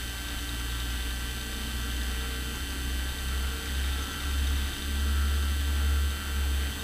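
Beechcraft Bonanza S35's six-cylinder piston engine running at low power, heard inside the cabin as a low rumble that swells and eases several times, over a steady hum.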